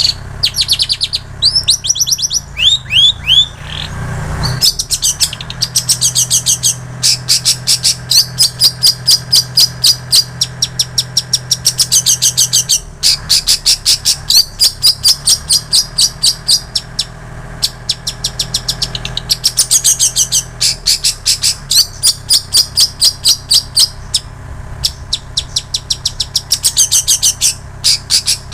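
Long-tailed shrike (cendet) singing a loud, fast song of rapidly repeated high chirping notes in long runs with brief pauses, its repertoire stuffed with the mimicked songs of plain prinia and canary.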